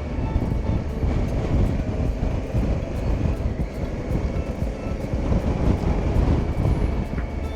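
Motorcycle on the move: a steady rush of wind and road noise over the engine, with faint music underneath.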